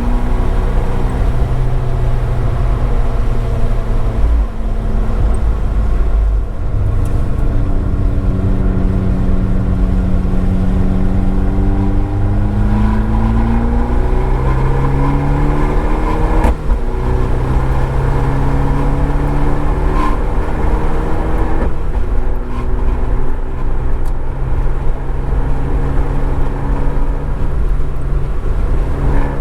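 Abarth 595 Esseesse's turbocharged four-cylinder through an Akrapovič exhaust, accelerating hard on track: the engine note rises steadily through each gear and drops back at several upshifts, heard from a microphone in the trunk with some noise.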